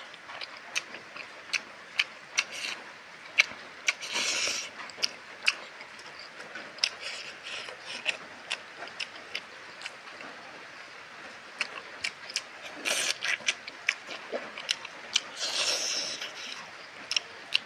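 Close-up eating sounds: wet lip-smacks and chewing, heard as a run of short sharp smacks, with a few longer, noisier stretches about four seconds in and again near the end as rice and meat are eaten by hand.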